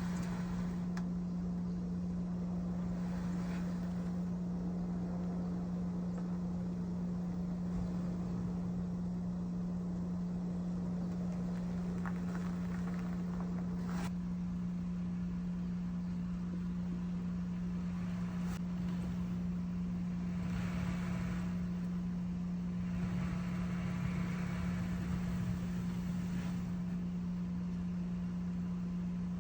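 Car moving slowly into a snow- and ice-covered driveway, with a steady low hum throughout and stretches of louder rough noise about twenty seconds in and again a few seconds later.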